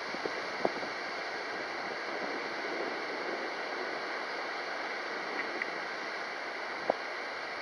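Steady rushing wind noise, with two faint short clicks, one about a second in and one near the end.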